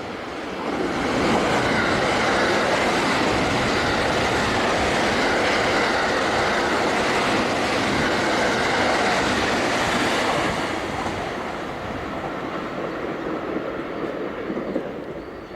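A 12-car Thunderbird limited express electric train passing at high speed. The wheels and train noise swell up in about a second, run loud and steady for some nine seconds, then die away as the train recedes.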